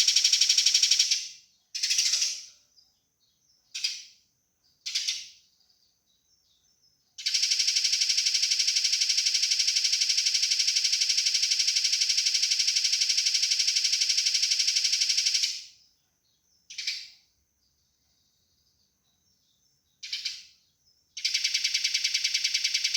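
Eurasian tree sparrows' fighting calls: fast, dense runs of harsh repeated chirps forming a churring rattle, one as it starts, a long one of about eight seconds in the middle and another near the end. Short single chirp bursts fall in the pauses between.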